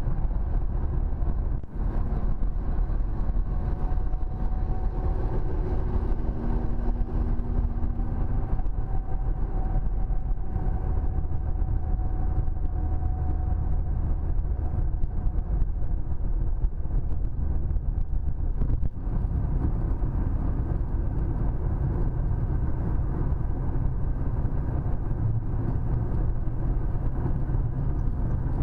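Car driving at road speed: steady tyre and engine noise with a low rumble, unbroken throughout.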